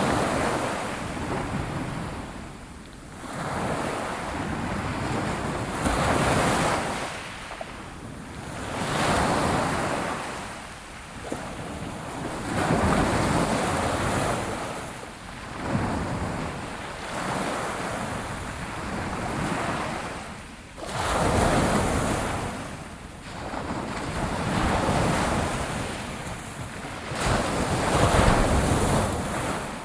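Ocean waves breaking and washing up on a shore, the surf swelling and falling away every two to three seconds, with some wind on the microphone.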